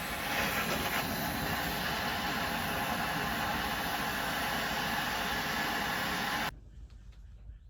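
A steady hiss that cuts off suddenly about six and a half seconds in, followed by a few faint clicks.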